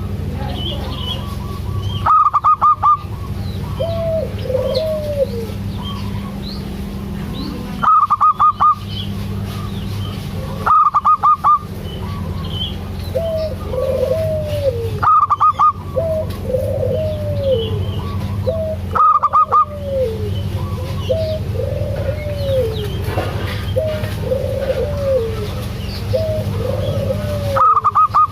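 Zebra doves (perkutut) cooing: repeated short arched notes that rise and fall in pitch. A louder, higher call of four or five quick notes cuts in every few seconds, about seven times, over a steady low hum.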